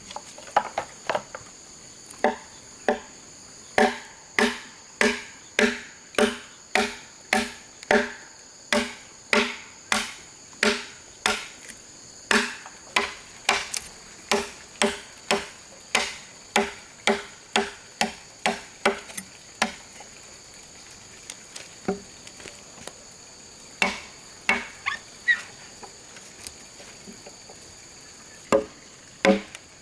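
Blows chopping into bamboo, each a sharp, hollow, ringing knock, about two a second, easing off for a few seconds past the middle and resuming with a few strikes near the end. Insects buzz steadily underneath.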